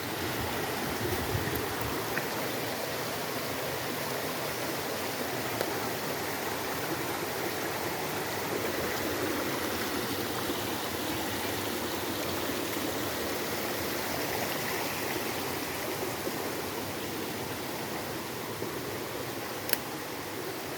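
Small stream running with a steady rush of flowing water, and one sharp click near the end.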